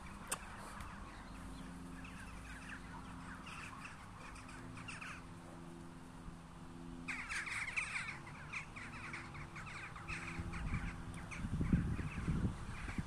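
Harsh bird calls repeating over and over, much busier from about seven seconds in. A few low thumps near the end.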